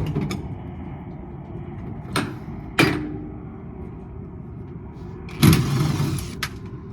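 Metal clanking from an air-conditioning unit being taken apart for scrap: two sharp knocks, the second ringing briefly, then about a second of scraping, rattling metal and a final click, over a steady low rumble.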